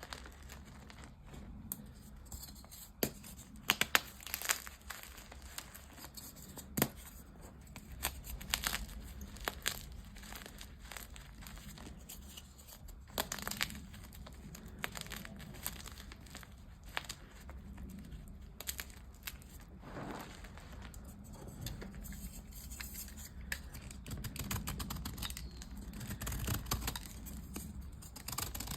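Dyed gym chalk being crushed and crumbled, with irregular sharp crunches and crackles, the loudest few in the first five seconds.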